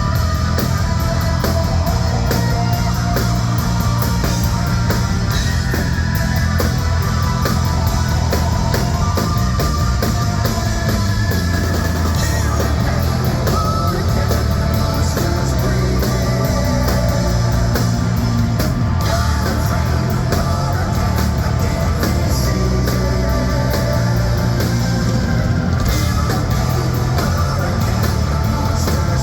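Hard-rock band playing live: electric guitar and drum kit going loudly and continuously through the song.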